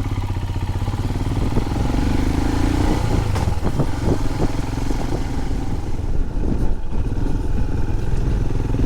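Royal Enfield Himalayan's single-cylinder engine running through a Lextek aftermarket end can as the bike is ridden, with a steady pulsing exhaust note.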